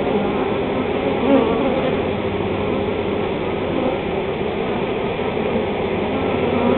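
Large honey bee swarm buzzing around the hive: a dense, steady drone with no breaks.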